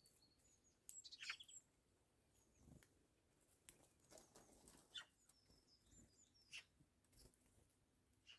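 Faint bird calls: scattered short, high chirping notes, with a few soft clicks and taps in between.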